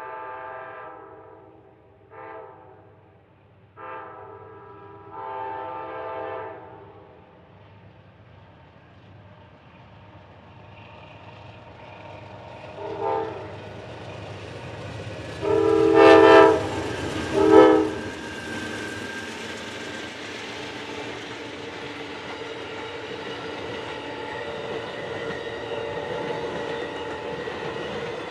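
Amtrak passenger train's horn sounding for a crossing. First come fainter blasts: a long one, two short and a long. About halfway through, much louder, come a short blast, a long one and a short one. Then the train, led by two GE Genesis locomotives, passes close with a steady rumble and the clatter of wheels on rail.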